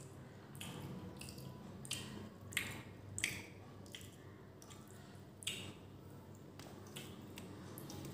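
Close-miked eating by hand: wet mouth smacks and clicks while chewing rice and beef curry, about a dozen, the loudest a couple of seconds in and again about halfway, over a faint steady low hum.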